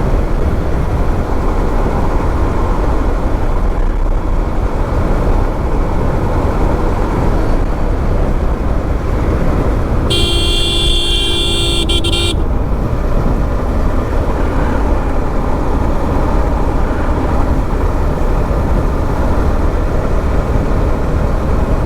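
Steady riding noise on a moving motorbike, a dense rushing haze heaviest in the low end. About ten seconds in, a vehicle horn blows one long blast of a little over two seconds.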